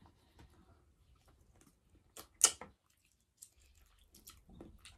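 Close-up eating sounds: a person chewing and biting into a cooked green vegetable, with faint small mouth clicks and one sharp crunch about two and a half seconds in. The vegetable is tough and over-mature.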